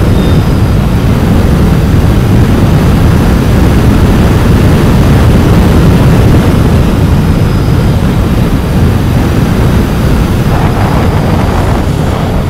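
Royal Enfield Continental GT 650's 648 cc parallel-twin engine through its stock exhaust, running steadily under load at high speed, around 120 km/h. The sound is loud and low-pitched and eases a little near the end.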